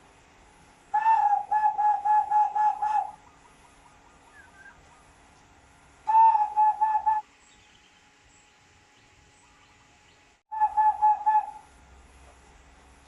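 A bird calling in three bursts of rapid whistled notes on one pitch, about four notes a second. The first burst is the longest, about eight notes; the second, about halfway through, is short; the third comes near the end.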